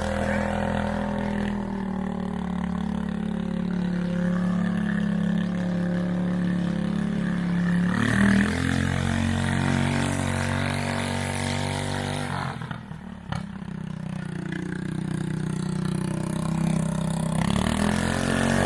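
John Deere 210 lawn tractor engine running as the tractor is driven. The engine note holds steady, shifts briefly about eight seconds in, dips about twelve seconds in, and then climbs again.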